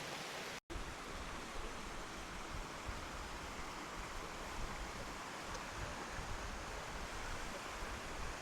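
Steady rushing of a waterfall, with low gusts of wind rumbling on the microphone. The sound drops out completely for a moment about half a second in.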